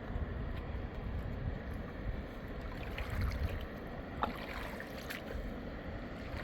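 Rushing river water with wind gusting over the microphone, and a single sharp click about four seconds in.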